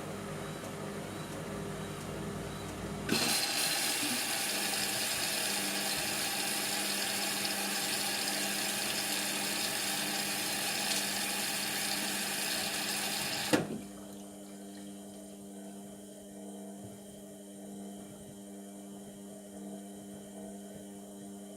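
Indesit MTWC71252WUK washing machine taking in water: a loud rushing hiss starts suddenly a few seconds in, runs steadily for about ten seconds, and cuts off with a sharp clunk as the inlet shuts. A low steady machine hum runs before and after it.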